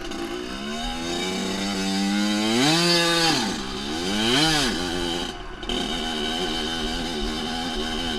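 Dirt bike engine running and revving: its pitch climbs and falls twice, about three and four and a half seconds in. It dips briefly just past halfway, then settles into a steady run.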